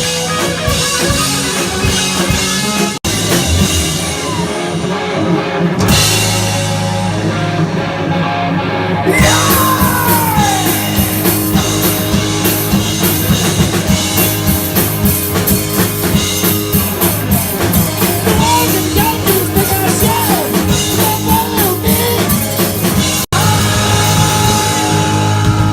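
Live rock band playing loud: drum kit and amplified instruments, with a falling pitch glide about nine seconds in and a regular pounding beat through the second half. The sound cuts out abruptly for an instant twice.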